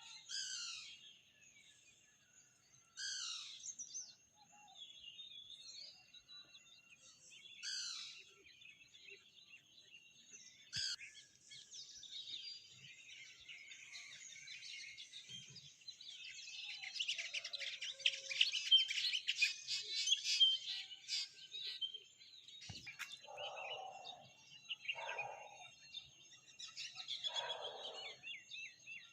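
A morning chorus of several wild birds. Sharp, steeply falling high calls come one at a time in the first seconds, then a dense burst of fast twittering chirps in the middle, then a run of lower, falling calls about every two seconds near the end. A faint steady high-pitched whine runs underneath.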